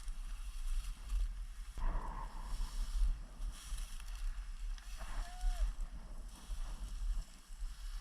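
Wind buffeting the microphone outdoors: a low rumble that rises and falls in gusts, with a faint short whistle-like tone about five seconds in.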